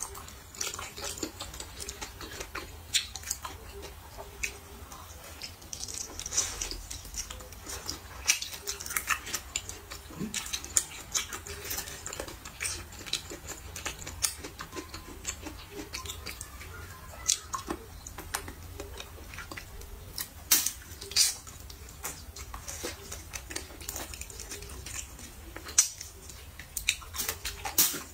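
A person eating braised pork trotters: chewing with many irregular sharp clicks and smacks, and a few light clinks like cutlery on a dish.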